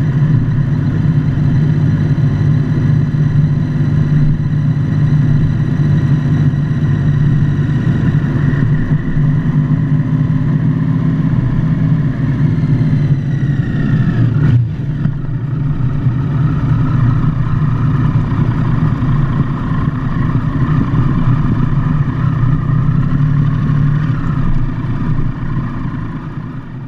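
Motorcycle engine running under way. About halfway through its pitch slides down and breaks briefly, as with easing off and shifting, then it settles again before fading out at the end.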